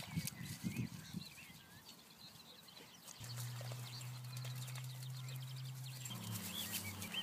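Small birds calling and singing in short chirps throughout. A few soft low thuds come in the first second, and a steady low hum starts about three seconds in and shifts to a higher pitch near the end.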